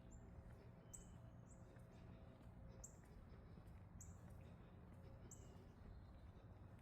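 Faint, high-pitched bird chirps, short notes about once a second, over a low background rumble.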